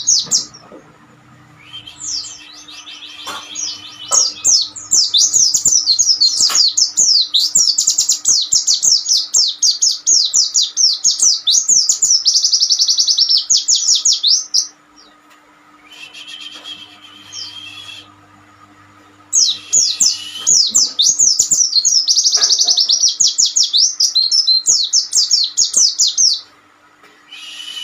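White-eyes singing in long, fast twittering runs of high chirps, two long spells with a pause between them, over a faint steady hum.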